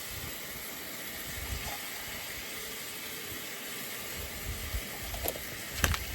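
Steak pieces frying in garlic butter in a skillet, a steady sizzle, with a few sharp clicks near the end.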